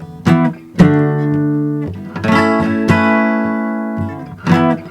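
Music: strummed acoustic guitar chords, each struck sharply and left to ring, with no singing.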